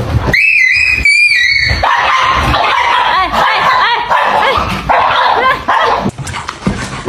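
Two drawn-out cat yowls in the first two seconds, then a dog yipping and barking in rapid, excited bursts that thin out near the end.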